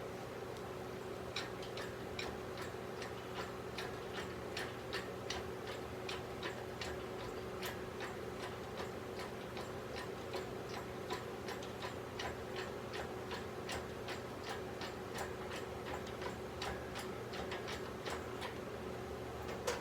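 Sharp clicks at an uneven pace, one to three a second, over a steady hum.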